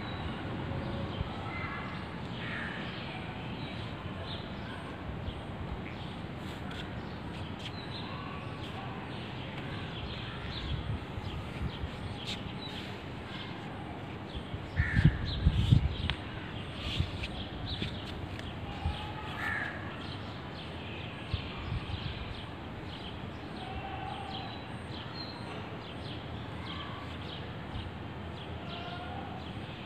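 Birds calling now and then over steady outdoor background noise, with a short burst of low rumbling about halfway through.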